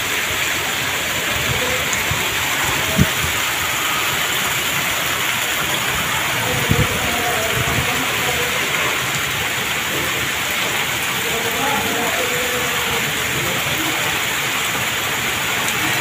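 Torrential monsoon rain falling steadily in strong wind, a dense unbroken rush of rain on the ground and road. Two short thumps come about three and seven seconds in.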